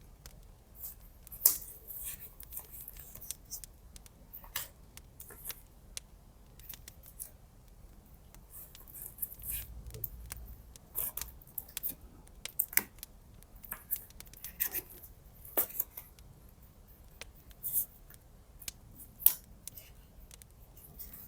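Scissors snipping in a run of short, irregular cuts, the sharpest about a second and a half in and again near the end, as paper or washi tape is cut for a journal collage.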